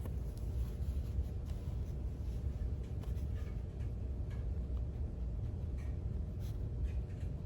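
Pen or pencil writing on paper: faint, scattered scratches and light ticks over a steady low room rumble.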